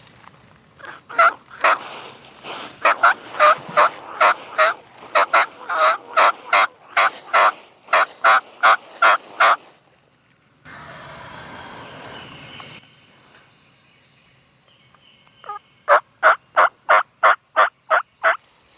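Wild turkey calling: a long series of loud, evenly spaced notes through the first ten seconds, then another quick run of about ten notes near the end. A short rush of noise sounds around the middle.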